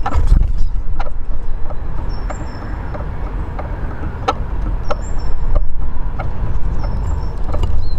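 Eurasian siskins at a bird table: short, thin, high calls recurring about every two and a half seconds, among sharp clicks and taps from the birds on the table, over a loud low rumble.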